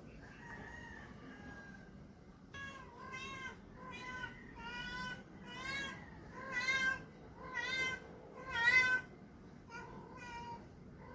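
Male Persian cat giving a string of short, wavering meows, about one a second, the calls of a tom cat seeking a mate. A faint drawn-out note comes first; the meows start a couple of seconds in and grow louder, loudest about three quarters of the way through.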